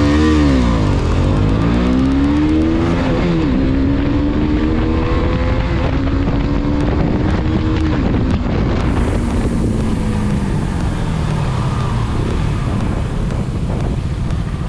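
Single-cylinder 250 cc motorcycle engine revving hard on a drag-race launch, accelerating through the gears. The pitch climbs and drops sharply at upshifts about a second and about three seconds in, climbs again, then falls away after about eight seconds as the throttle closes. A steady rushing noise runs underneath.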